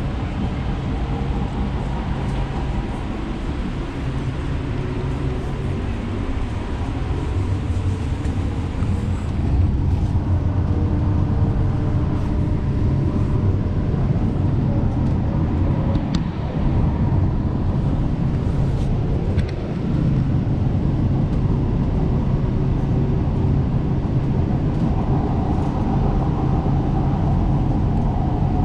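Light rail train running, heard from inside the car: a steady low rumble with faint whining tones from the motors.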